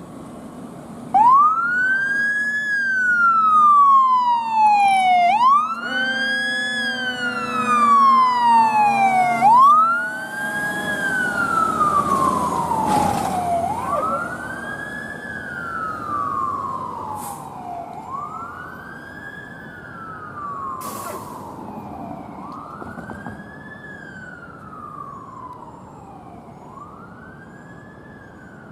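Emergency vehicle siren on a wail, each cycle a quick rise then a slower fall, repeating about every four seconds. It comes in loud about a second in, with a steady horn-like blast held from about six to nine seconds in, and fades away as the vehicle moves off.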